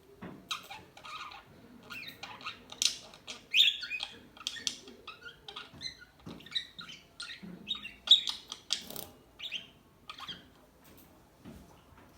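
Parakeets chirping and squawking in a quick, irregular run of short high calls.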